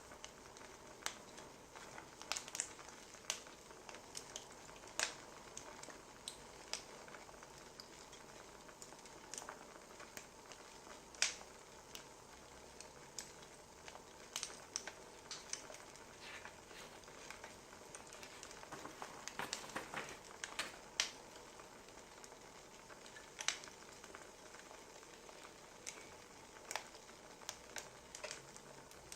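Wood fire crackling: irregular sharp pops and snaps over a soft steady hiss, with a dense cluster of pops about twenty seconds in.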